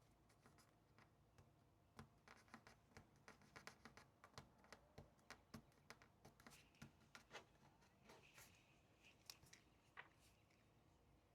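Faint writing on paper: a run of short, irregular scratches and taps from about two seconds in, thinning out near the end.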